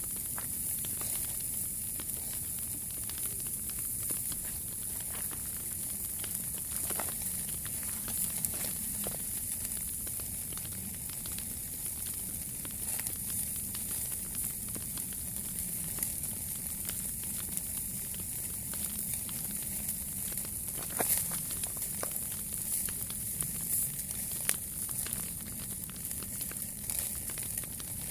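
Wood fire burning with a steady hiss, crackling with scattered small pops, and a couple of sharper pops late on.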